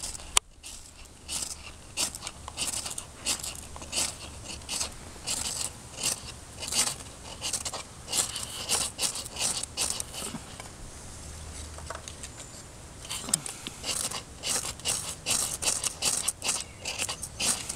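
Knife blade shaving and scraping a piece of wood in repeated short strokes, about one or two a second, easing off for a few seconds about two-thirds of the way through.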